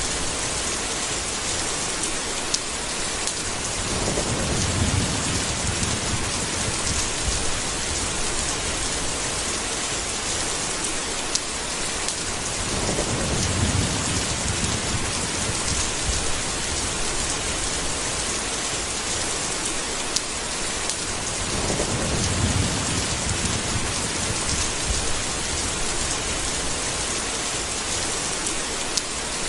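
Steady heavy rain hissing, with low rolling thunder rumbling up three times, each swell lasting two or three seconds and coming about every eight or nine seconds.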